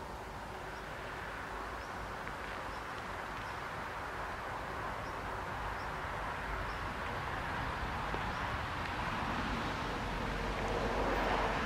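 Esslinger diesel railcars approaching unseen, a rumble that grows steadily louder. A bird chirps faintly at intervals.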